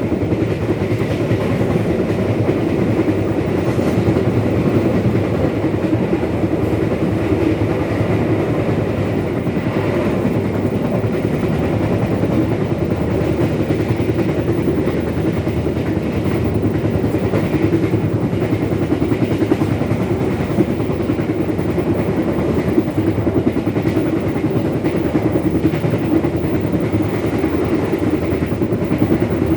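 Passenger train running along the track: a steady, even rumble with no break or change.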